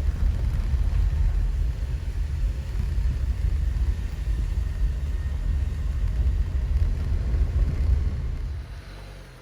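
Car driving, a steady low road rumble that drops away near the end.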